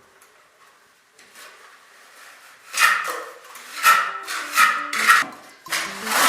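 A handful of rough scraping strokes, each about half a second long, from about halfway through, like a tool rasping on a hard surface. Background music with plucked notes comes in under them and carries on near the end.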